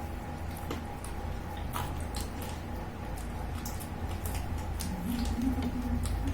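Quiet eating sounds: chewing and small wet mouth noises, with scattered faint clicks as tandoori chicken is handled and eaten by hand, over a steady low hum.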